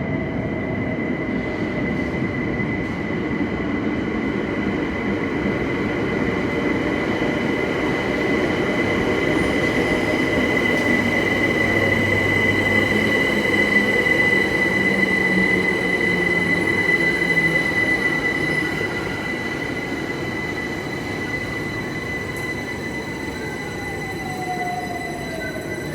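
Electric passenger train running through a station, its rumble building to a peak past the middle and then fading, with a steady high-pitched tone above it throughout.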